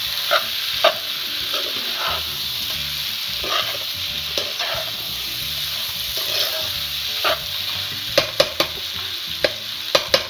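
Masala-coated chicken wings frying in a nonstick pan with a steady sizzle, as a spatula stirs them and scrapes and clicks against the pan, several times in quick succession near the end. The masala is cooked down to where the oil separates out.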